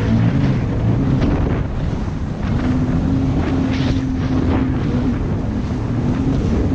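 Jet ski engine running underway, a steady hum over the rush of water, with wind buffeting the microphone.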